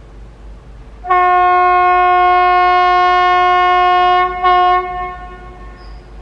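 Horn of an Indian Railways WAG9 electric locomotive: one long steady blast of about three seconds, then a short second blast that dies away.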